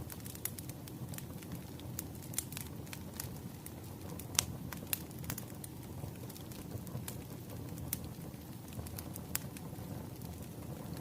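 Wood fire burning, crackling with irregular sharp pops over a low, steady rush of flame; the loudest pop comes a little under halfway through.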